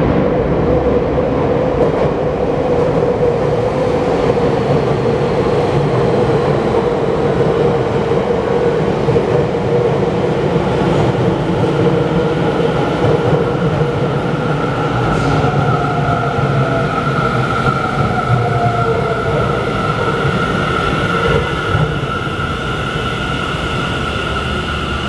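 Tokyo Metro 10000 series subway train pulling into the platform and slowing: a continuous rumble of wheels on rail with steady whining tones. A higher whine comes in about eleven seconds in, and the sound eases slightly as the train slows.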